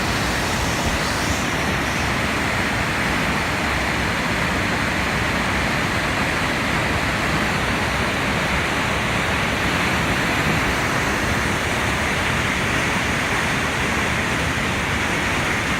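Steady, loud rush of whitewater in a creek gorge, heard close up from a kayak.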